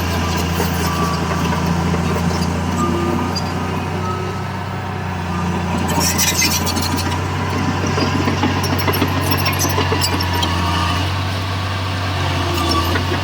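Heavy construction machine's diesel engine running steadily with a deep hum, with scattered clanks and rattles about halfway through.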